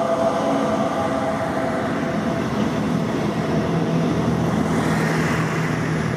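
Electric freight train passing close by: a BLS Cargo Class 485 locomotive followed by intermodal pocket wagons carrying lorry trailers, its wheels running steadily on the rails with a faint steady hum, the hiss brightening about five seconds in.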